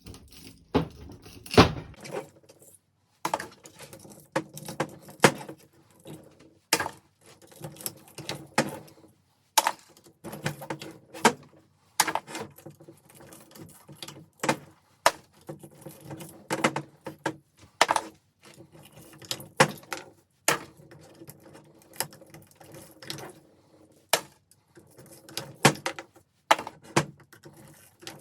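A screwdriver prying cut copper winding pieces out of a ceiling fan motor's steel stator: sharp metal clicks and knocks at irregular intervals, about one a second, with scraping between them.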